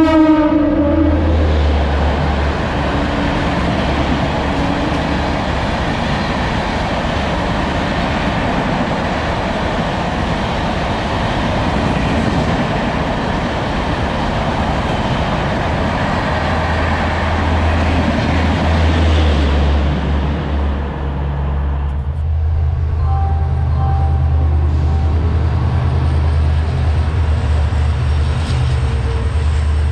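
An express passenger train running through the station at speed: a short horn note at the start, then a steady rush of wheel and air noise for about twenty seconds as the coaches pass. After it fades, a diesel locomotive hauling freight wagons gives a low, steady engine rumble.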